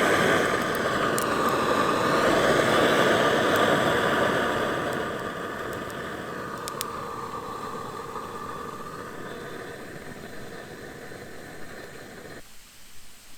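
Shinfuji Do-Ga GT-110 gas torch burner blowing its flame with a steady, loud hiss. It fades gradually from about four seconds in, with a few sharp crackles, and stops abruptly near the end.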